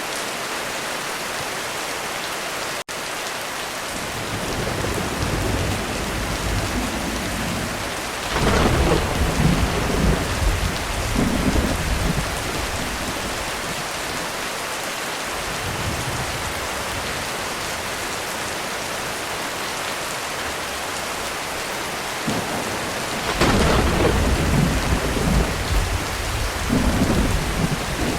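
Heavy, steady rain with rolling thunder. The thunder rumbles build several times, with loud peals about a third of the way in and again near the end. There is a momentary gap in the sound about three seconds in.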